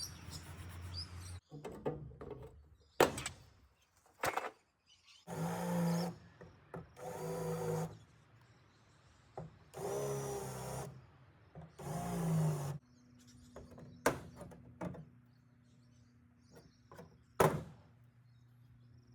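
Power drill run in four short bursts of about a second each, with a few sharp knocks between them.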